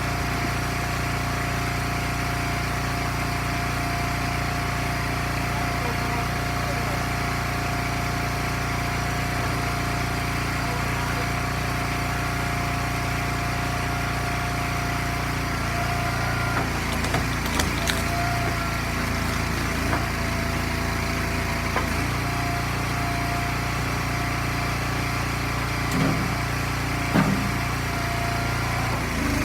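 Small gasoline engine of an Eastonmade log splitter running steadily, with a few short knocks in the second half.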